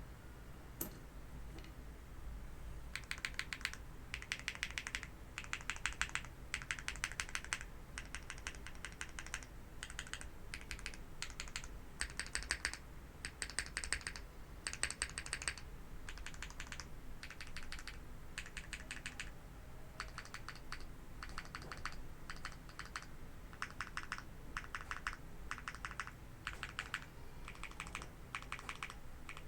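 TKD Cycle 8 mechanical keyboard with HMX Green Apple switches, mounted plateless with no foam, being typed on in bursts of rapid keystrokes with short pauses between them. A single keystroke comes near the start, and steady typing begins about three seconds in.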